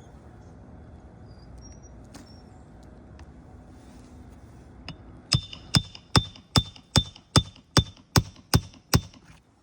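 Hammer strikes during roof repair: about ten sharp blows in quick, even succession, roughly two and a half a second, each with a short ring. They begin about five seconds in, after a stretch of faint background noise.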